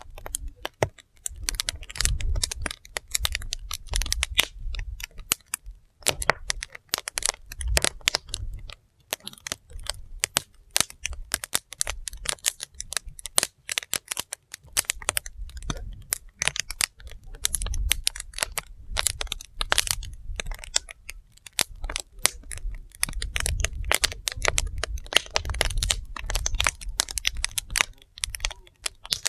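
Wood fire burning, with dense irregular crackling and popping of the burning logs over a low rumble.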